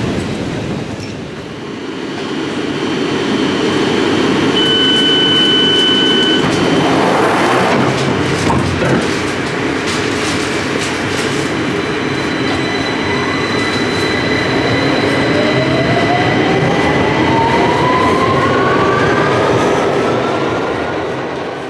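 London Underground train running, with loud rail and wheel noise and a steady high whine. Over the last several seconds an electric whine climbs steadily in pitch as the train picks up speed.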